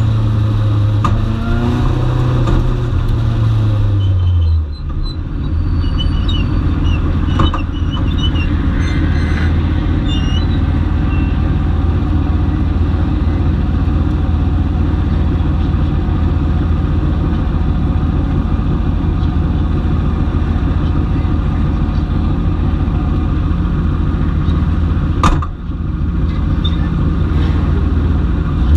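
Onboard sound of a dwarf race car's engine running loud. Its pitch drops about four seconds in as the throttle comes off, then holds steady, with a sharp knock twice, once near the end.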